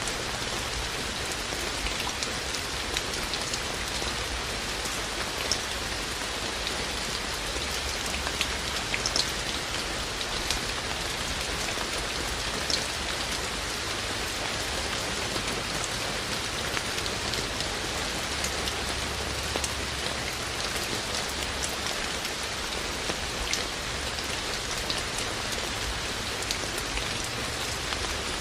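Steady rain falling, an even hiss with many separate drops ticking and pattering on surfaces close by.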